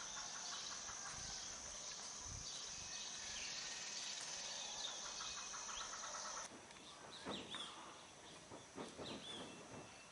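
Dawn chorus: several birds chirping with short rising and falling calls over a steady high-pitched insect drone. The drone stops abruptly about six and a half seconds in, leaving scattered bird calls.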